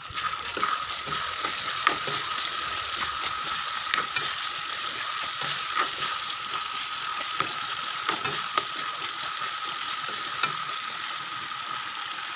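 Chicken curry sizzling in a kadai on a gas stove, with a metal spoon stirring and scraping, clicking against the pan now and then.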